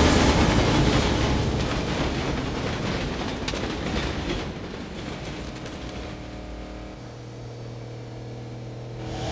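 A train rushing past with a heavy rumble and clatter that fades steadily away; in the last two seconds a low steady hum takes over.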